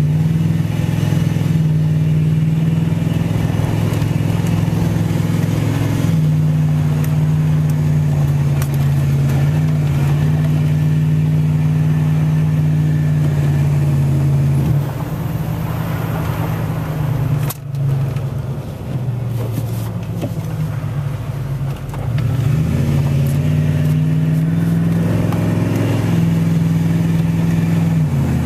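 Truck engine and road noise heard from inside the cab while driving, a steady low drone. Past the middle it eases off and quietens for several seconds, then its pitch rises again as the truck speeds back up.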